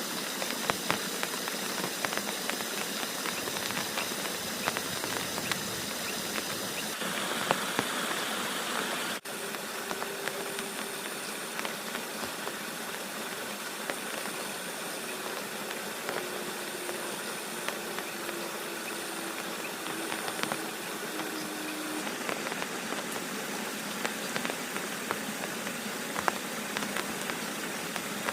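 Steady rain, an even hiss with scattered sharp drop taps. There is a brief break about nine seconds in.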